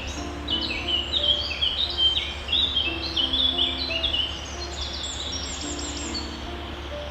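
Small birds chirping: a dense chorus of short, quick, high chirps that overlap busily for the first four seconds or so, then thin out to a few scattered calls.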